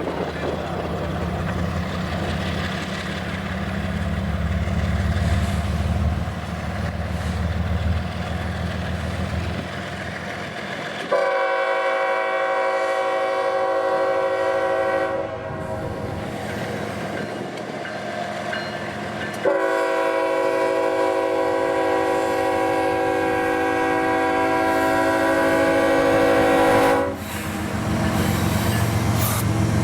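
CSX diesel freight locomotives running with a low engine drone, then sounding the horn twice: a blast of about four seconds, and after a pause a longer blast of about seven seconds. The engine drone returns near the end.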